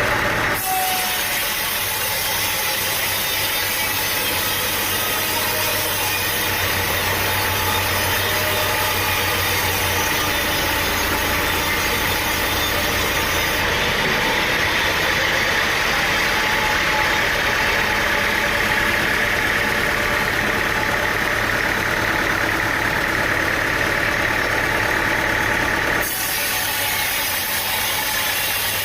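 Sawmill machinery running steadily, an engine with a sustained whine over it, with abrupt changes in the sound about half a second in and again near the end.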